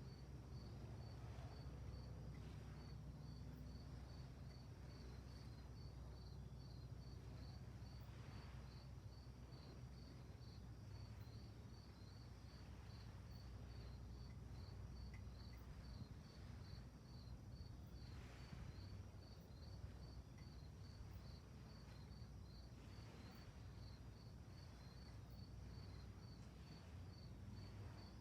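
Crickets chirping faintly and steadily, about two chirps a second, over a low steady rumble.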